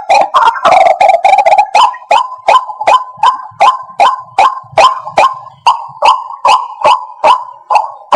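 White-breasted waterhen calling: a dense, rapid chattering, then from about two seconds in a steady run of short, sharp repeated notes, about two or three a second.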